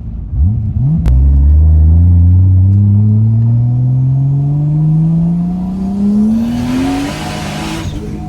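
Big-turbo Toyota Supra's 2JZ inline-six, heard from inside the cabin, accelerating hard: after a couple of quick blips and a click, the engine pitch climbs steadily for about six seconds. Near the end a loud rushing hiss of turbo boost builds, then cuts off suddenly as the throttle closes and the revs drop.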